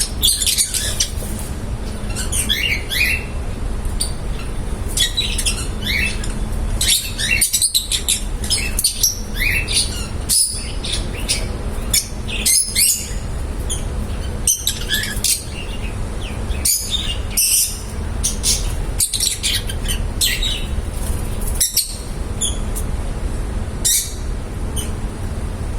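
Lovebirds chirping: many short, high, quick chirps in irregular clusters, over a steady low hum.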